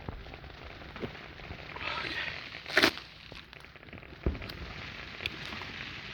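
Scattered fireworks pops and crackles, with a short hiss about two seconds in, a sharp crack just before three seconds, and a dull thump a little after four seconds.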